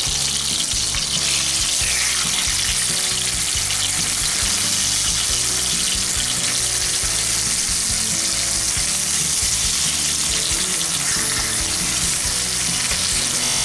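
Spiced potato slices frying in hot oil in a kadai: a steady loud sizzle. Near the end a spatula spreads the slices out in the oil.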